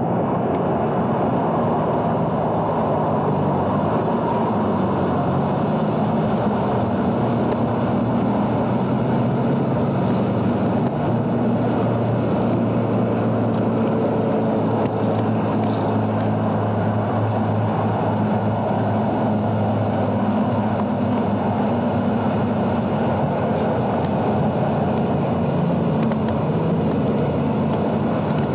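Car engine running as a small hatchback drives, a steady sound that keeps the same level throughout.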